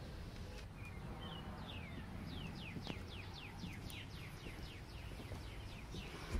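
A songbird singing a long run of short whistled notes, each falling in pitch, about three or four a second, starting about a second and a half in. A steady low rumble runs underneath.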